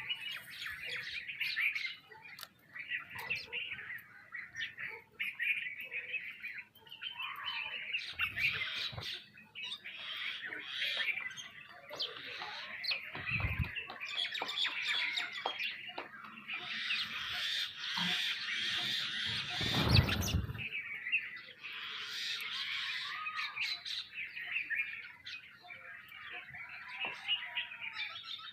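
A flock of sparrows chirping and squawking in a dense, continuous chatter. Low thumps sound about halfway through and again about two-thirds of the way in; the second is the loudest moment.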